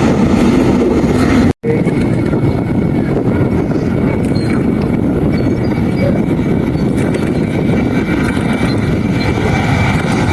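Steady noise of aircraft engines running at the airfield, with a faint high whine. It cuts out completely for a split second about a second and a half in, then carries on.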